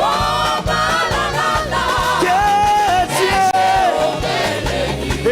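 Up-tempo gospel praise song performed live: lead and group voices singing over a band with a steady drum beat.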